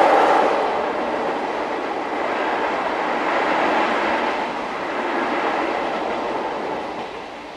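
Steady rumbling roar of an old-type passenger coach running at speed through a long tunnel, heard from the coach's end vestibule behind the locomotive. The roar eases slightly about half a second in and drops again near the end.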